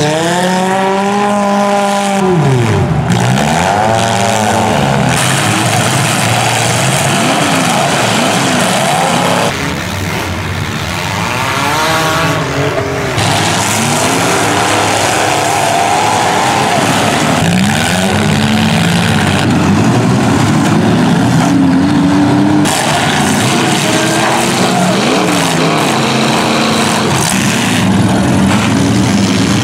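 Demolition derby cars' engines revving hard, rising and falling again and again over a continuous noisy din. The sound changes abruptly several times.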